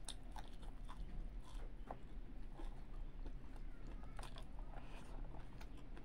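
Close-miked chewing of a mouthful of rice and fried fish eaten by hand, with scattered wet mouth clicks.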